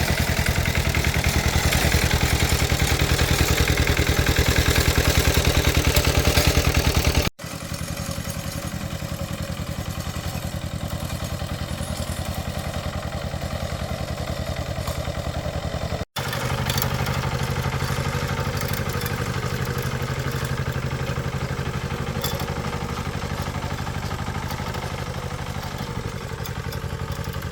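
A small engine running steadily with a fast, even pulse. It cuts out abruptly twice and resumes at once, a little quieter after the first break.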